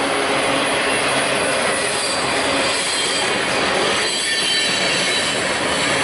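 Freight train cars rolling past close by: a steady noise of steel wheels on rail, with thin high wheel squeal ringing over it.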